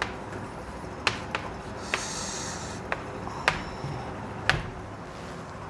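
Writing: a handful of sharp taps as the pen or marker meets the surface, with a short scratchy stroke about two seconds in.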